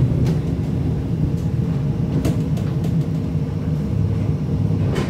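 Breda VLC tram running along the line: a steady low rumble with a few scattered short clicks.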